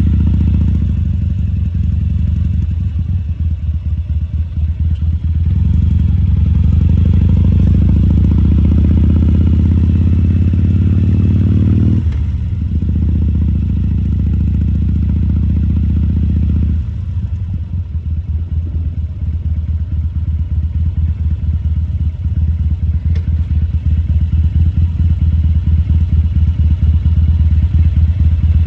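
Harley-Davidson Sportster XL1200C's air-cooled V-twin running as the bike is ridden at low speed. The revs rise about five seconds in, fall away twice, near twelve and seventeen seconds, then slowly build again.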